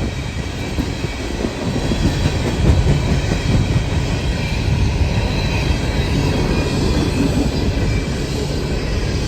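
Coal train cars rolling past: a steady heavy rumble and clatter of steel wheels on the rails, with a faint wheel squeal above it.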